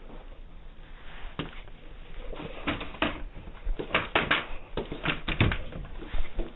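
Irregular clicks, knocks and rustling in a small room, bunched together in the middle, from people moving about and handling gear or doors.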